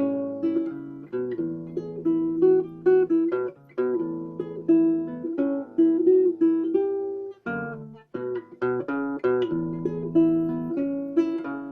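Caramel CB904 baritone guitalele, a small nylon-string guitar tuned EBGDAE, being fingerpicked: a melody over repeating bass notes, with a brief break about two-thirds of the way through.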